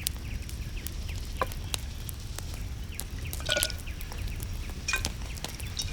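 Campfire crackling: scattered sharp pops and snaps over a low steady rumble.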